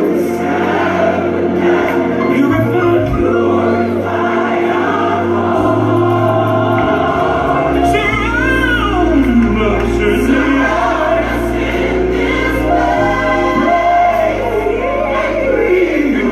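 Gospel music with a choir singing over a sustained bass, and a solo voice sliding through vocal runs about halfway through and again near the end.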